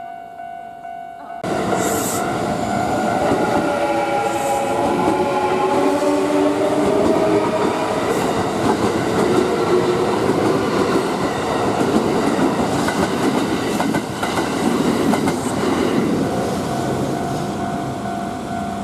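An electric train runs through a level crossing. It arrives suddenly about a second and a half in, with the motors whining in several tones during its first seconds, and its running noise fills most of the clip. The crossing's steady warning tone is heard before the train arrives and again as the train recedes near the end.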